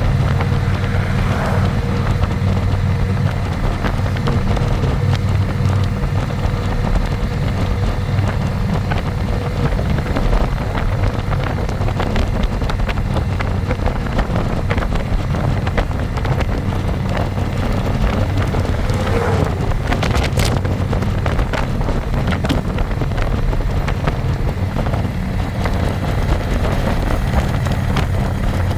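Harley-Davidson Electra Glide's V-twin engine running steadily under way, with wind rushing over the microphone.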